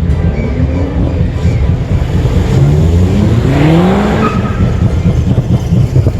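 Car engine revving and accelerating hard, its pitch climbing in long rising sweeps over a heavy low rumble.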